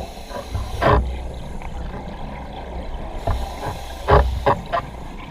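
Scuba diver's breathing heard underwater through the camera housing: regulator exhaust bubbles rumbling out in short bursts, once about a second in and three times in quick succession near the end, over a low steady underwater rumble.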